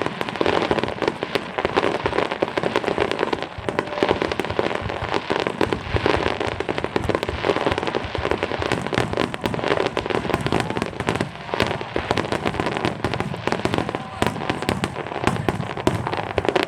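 Aerial fireworks going off in a dense, continuous barrage of rapid bangs and crackling, many reports a second, with no break.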